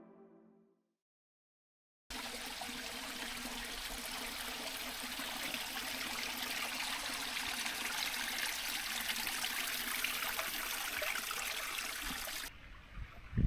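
The tail of a piece of music fades out, followed by a moment of silence. Then a steady rush of running water begins about two seconds in and stops abruptly near the end.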